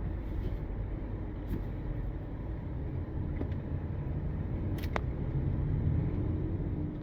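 Car driving in traffic: a steady low rumble of road and engine noise, with a couple of faint clicks.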